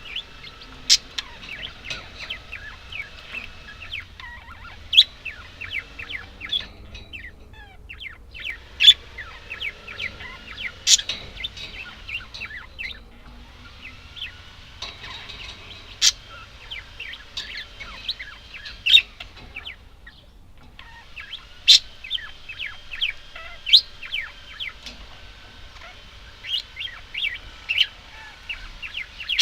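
Budgerigars chattering: a dense run of short, sharp chirps and warbles, broken by a few brief lulls.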